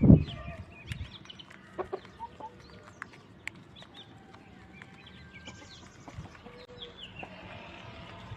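Chickens clucking with short scattered calls, with a loud low thump at the very start.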